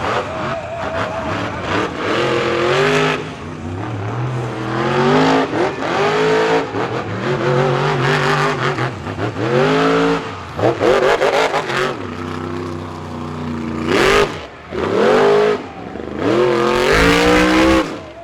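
Monster truck engine revved hard over and over, its pitch climbing and dropping back every couple of seconds.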